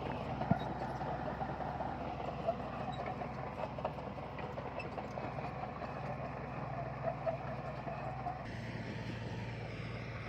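Heavy diesel earthmoving machinery running steadily, a low engine drone under continuous metallic rattling and clatter. The sound changes abruptly about eight and a half seconds in.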